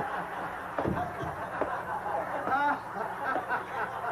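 Audience laughter, a mass of chuckles with scattered voices mixed in.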